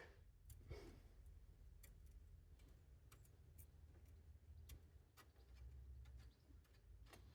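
Near silence: faint, irregular ticks every half-second to a second over a low steady hum.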